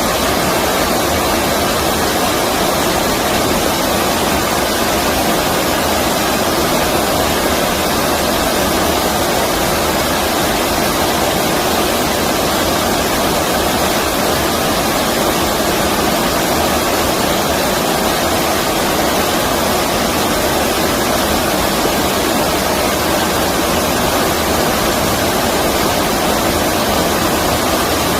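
Stream water rushing steadily, a constant even noise with no breaks.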